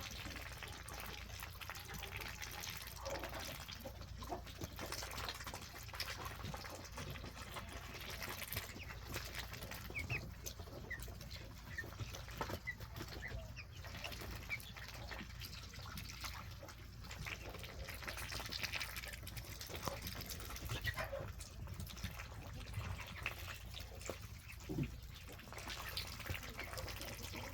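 Young Muscovy ducks dabbling in muddy water: soft wet slurping and splashing with scattered small clicks, and a few short high peeps from the young birds about halfway through.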